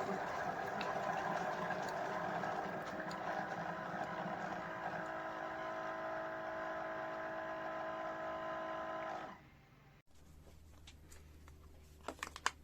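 A CHULUX mini single-serve coffee maker's pump running steadily as it pushes hot water through during the brew cycle, then winding down and stopping about nine seconds in. A few light clicks follow near the end.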